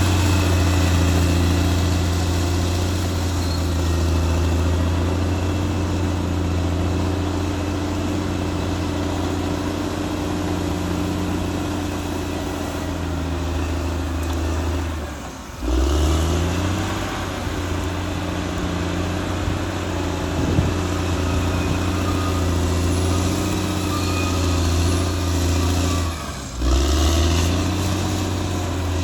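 Caterpillar D6R XL bulldozer's diesel engine running steadily under load. About halfway through, and again near the end, the engine note drops briefly and then quickly rises back.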